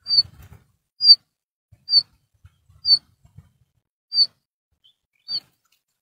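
A small bird giving six short, high chirps, roughly one a second, each dropping slightly in pitch.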